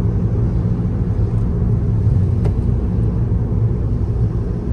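Steady low road rumble of a car, heard from inside while it drives.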